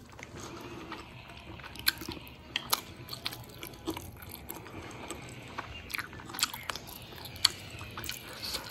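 Close-up chewing of soft, wide hand-pulled noodles, with irregular sharp wet clicks and smacks of the mouth.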